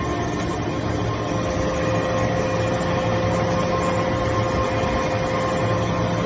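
Hydraulic baler for aluminum turnings running: the motor and hydraulic pump give a steady hum with a thin steady whine that comes in about a second in.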